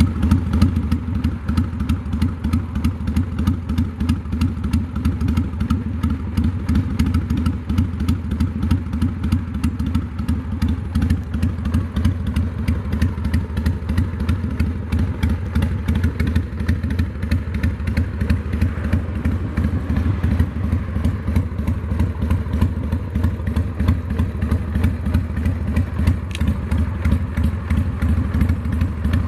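1994 Harley-Davidson Sportster 883's air-cooled 45-degree V-twin idling steadily through an aftermarket Vance & Hines exhaust.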